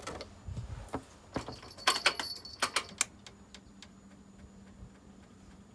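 A quick run of sharp metallic clicks and clinks, with a brief high ring, as small metal parts or tools are handled and set down.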